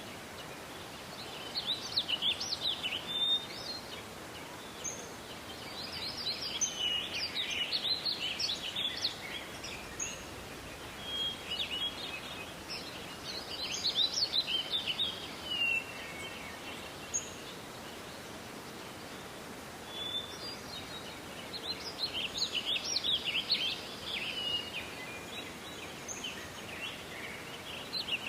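A songbird singing in repeated phrases of rapid, high twittering notes, a new phrase every five or six seconds, over a steady hiss of forest ambience.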